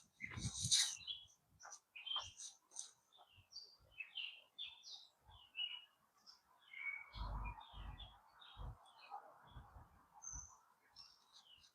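Songbirds chirping and calling with short, high notes throughout. A brief rustle comes near the start, and a few soft low thumps with rustling come in the second half.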